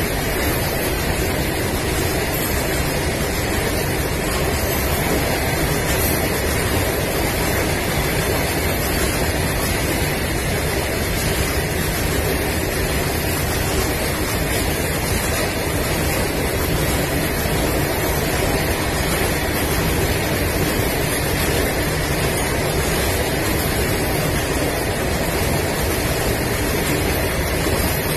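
Long freight train of open wagons running through at speed: a steady, unbroken rumble of wheels on rails.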